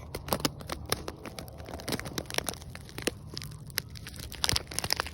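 Plastic pouch of a novelty fart bomb being squeezed hard in the hands, with irregular crinkling and crackling. The squeezing is meant to burst the inner pouch and set the bomb off.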